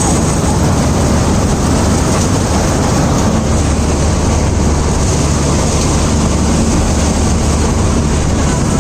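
Vishal 435 combine harvester running steadily in the field: a loud, even engine drone with a strong low hum under the noise of its working machinery.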